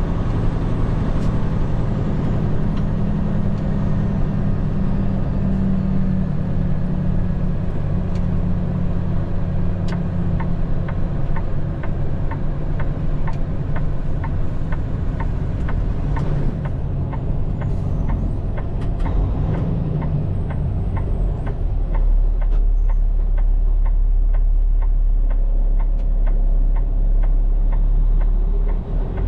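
Peterbilt 589 dump truck's diesel engine running with a steady low drone, a regular ticking through the middle, and a heavier deep rumble in the last third.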